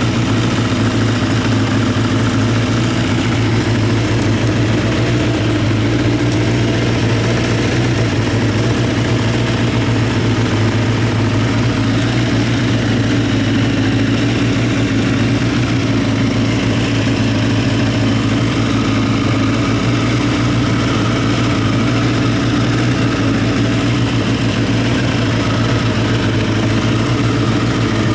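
Honda CBX550F2 Integra's air-cooled inline-four engine idling steadily.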